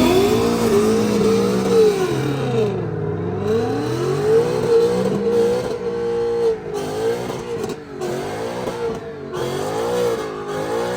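Car engine revving hard, its pitch climbing at first and then rising and falling again and again as the throttle is worked, wavering quickly near the end.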